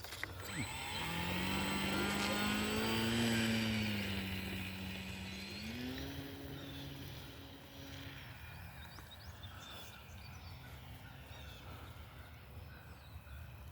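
Electric motor and propeller of a Hobbyzone Carbon Cub S2 1.3 m RC plane in flight just after launch: a steady buzzing drone with a faint high whine, swelling over the first few seconds, dipping slightly in pitch, stepping up in pitch about six seconds in, then fading to faint.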